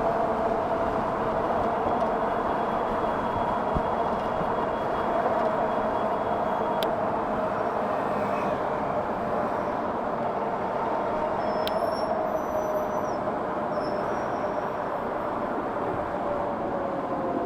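Wind and road noise rushing past at speed on a 60-volt e-bike, with the motor's steady whine slowly falling in pitch.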